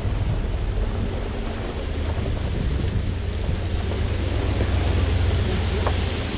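2020 Ram 1500 Rebel pickup driving, a steady low rumble with wind noise on the microphone.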